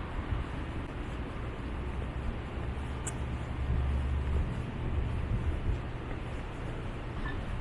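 Low, steady rumble of road traffic, swelling for a moment around four seconds in, with a brief click about three seconds in.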